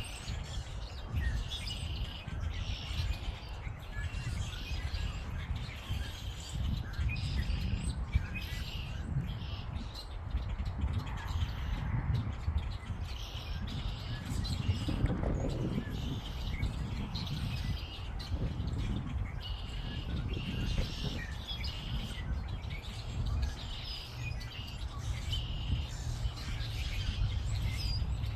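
Songbirds chirping and calling over and over, over a steady low rumble.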